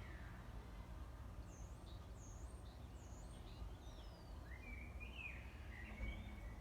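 Several wild birds calling over a steady low background rumble: a short high note repeated three times, a few thin falling whistles, then a warbling phrase in the second half.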